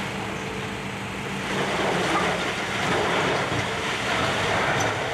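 Demolition excavator's diesel engine running steadily, with a louder, rough grinding and crunching noise from about a second and a half in.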